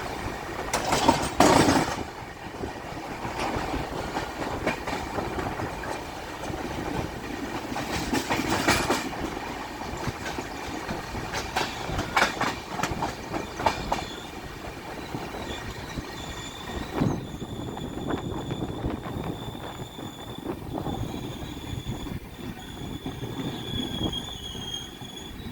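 Amrit Bharat passenger train hauled by WAP-5 electric locomotives running on the track, its wheels clattering over the rail joints. About halfway through, a high steady wheel squeal joins in and continues to the end.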